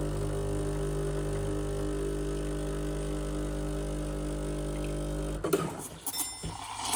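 Sage espresso machine running with a low, steady hum that cuts off abruptly about five and a half seconds in, followed by a few clicks and knocks.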